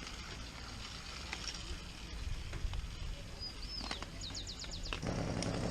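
A bird calling over a low outdoor rumble: one high falling whistle, then a quick run of about seven short high chirps about four seconds in. Near the end a louder low rumbling noise sets in.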